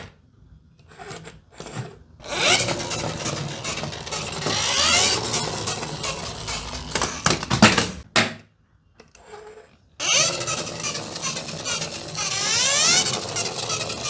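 Toy stunt motorbikes running along a toy track: noisy whirring and rattling with rising whines, in two runs broken by short quiet gaps.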